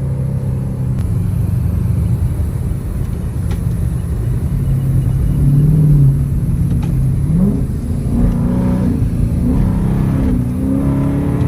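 2009 Dodge R/T's V8 engine running while driving, heard from inside the cabin: steady at first, then climbing in pitch through the second half as the car accelerates.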